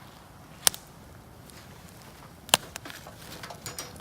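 Wood fire crackling in a fire pit: two sharp pops about two seconds apart, with a few softer ticks near the end.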